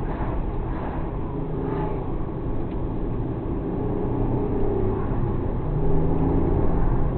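Suzuki Alto Works HA36S's 660 cc turbocharged three-cylinder engine running under way, with road rumble, its pitch shifting with the throttle and getting a little louder near the end.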